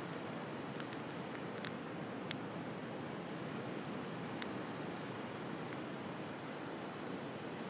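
Wood bonfire crackling, with a few sharp, irregular pops (the loudest about two seconds in), over a steady rushing background.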